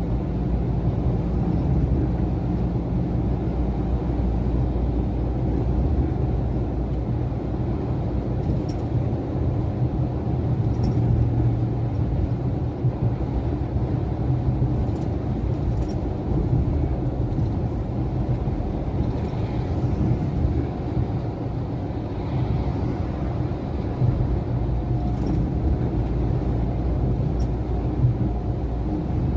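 Iveco truck engine running, a steady low rumble that shifts slightly in pitch a few times.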